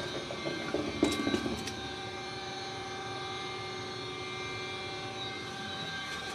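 Motorized drain-cleaning machine running steadily, its motor hum holding several fixed tones, with a brief clatter of clicks about a second in.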